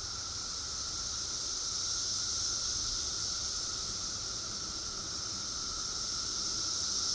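Chorus of periodical cicadas: a dense, steady drone with a high hiss and a lower whining tone beneath it, swelling slightly now and then.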